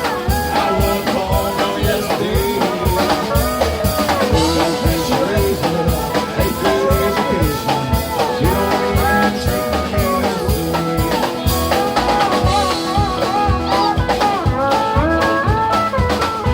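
Live country-rock band playing an instrumental break: a steady drum-kit beat under a lead guitar whose notes bend and slide.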